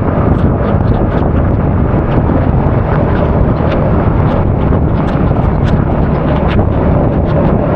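Heavy wind buffeting an action camera's microphone while riding a scooter at speed: a loud, steady, low rumble with scattered faint ticks through it.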